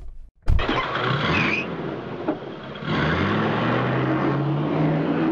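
A car engine starting up and then running, its pitch rising slowly as it revs up over the last couple of seconds.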